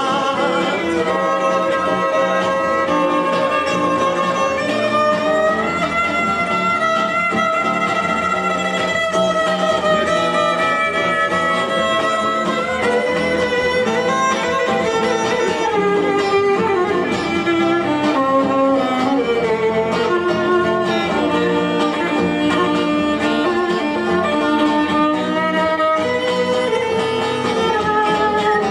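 Instrumental break of a folk-rock song: a violin plays the melody over strummed acoustic guitar, its line sliding down in pitch about halfway through.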